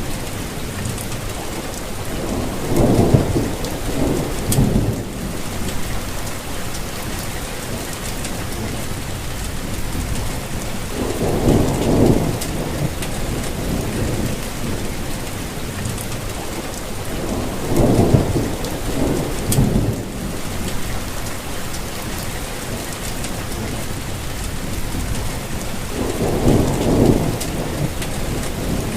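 Steady rainfall, with four short low rumbles rising out of it at intervals of several seconds.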